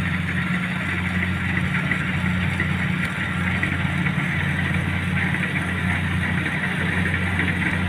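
An engine running steadily at a constant speed, giving an unbroken low hum.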